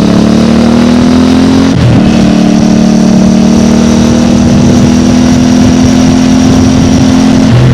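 Stock exhaust of a CFMOTO 450MT's parallel-twin engine pulling under throttle. The pitch climbs and drops briefly about two seconds in, as on a shift up a gear, then holds nearly steady and slowly rising before stepping down to a lower note near the end.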